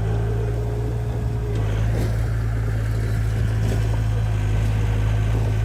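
Diesel engine of heavy earthmoving equipment running steadily with a deep, even hum, getting slightly louder about a second and a half in.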